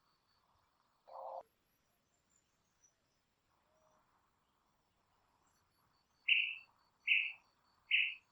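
Small bird calling: one short, lower note about a second in, then three short, sharp, high notes in quick succession near the end, the loudest sounds here. A faint, rapid, even ticking runs underneath in the second half.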